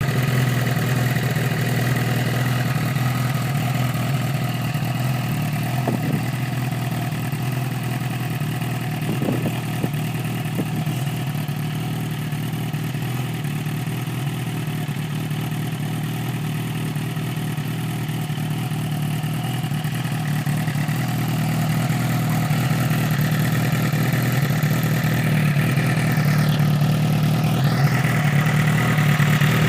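Engine idling steadily through an aftermarket exhaust, getting a little louder near the end.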